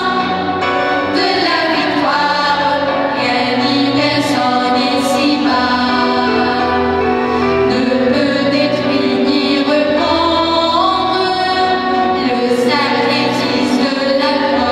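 Choir singing a song with sustained, continuous melody lines.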